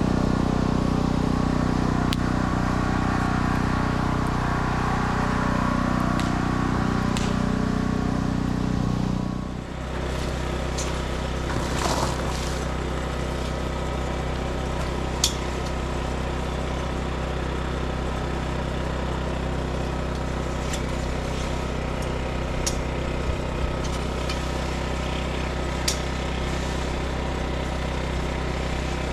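An engine running steadily. About nine and a half seconds in, the sound changes abruptly to a quieter, lower steady hum, with a few faint clicks later on.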